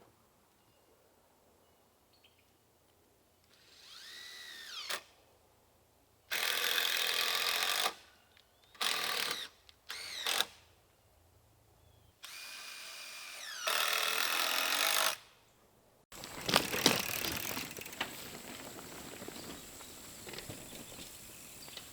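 Power drill run in several short bursts, each spinning up and stopping, followed by a few sharp knocks and rattling.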